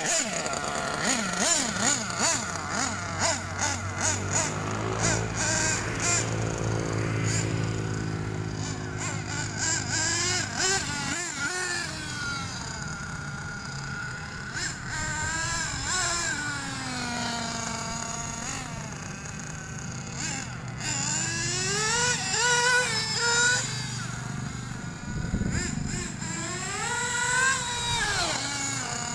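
Small two-stroke nitro engine of an RC buggy running and revving as it is driven. Its high-pitched whine rises and falls over and over with throttle and speed changes.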